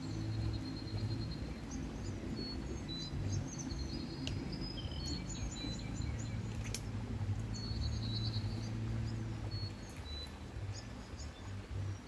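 Small birds chirping with short, high calls scattered throughout, over a steady low outdoor rumble; two sharp clicks stand out about four and seven seconds in.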